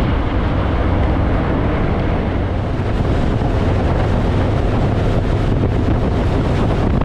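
Harley-Davidson Fat Boy's V-twin engine running steadily at road speed, under heavy wind noise rushing over the microphone in strong gusty wind.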